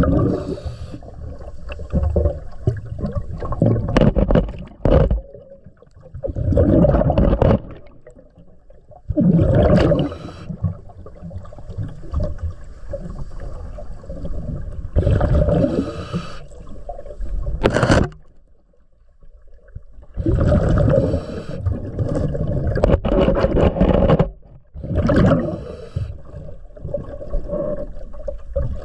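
A diver breathing underwater through a regulator: loud bubbling bursts of exhaled air every few seconds, with quieter gurgling and hissing between breaths.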